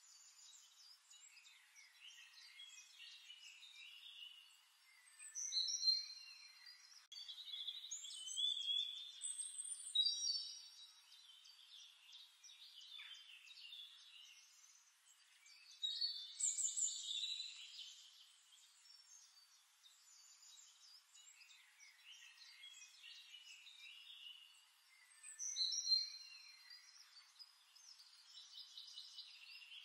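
Songbirds singing: several birds' varied, high chirping song phrases overlap, with louder phrases every few seconds.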